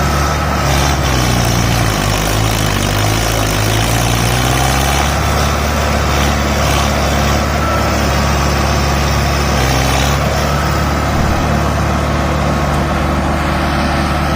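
Tractor diesel engine running loudly, its pitch dipping and rising over a few seconds near the start, then holding steady.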